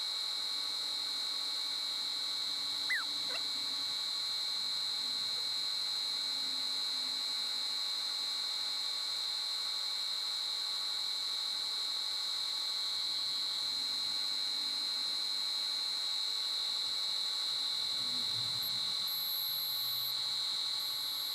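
Wood lathe running at steady speed with a high-pitched whine from its motor drive.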